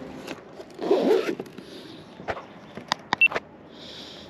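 Fishing tackle being handled: a rustling scrape about a second in, then a few sharp clicks and taps.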